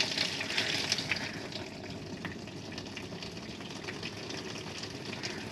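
Tap water running from a hose into the wash tub of a semi-automatic washing machine, a steady rush of filling water that is a little louder in the first second.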